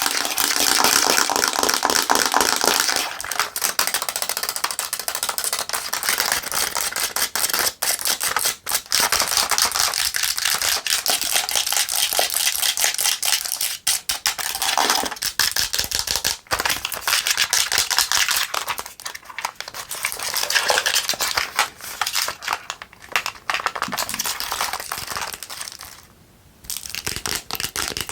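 Long fingernails rapidly tapping and scratching on a pink camera's body, a fast, dense run of clicks and scratches. Near the end there is a brief pause, and then tapping starts again on a mini moisturizer bottle.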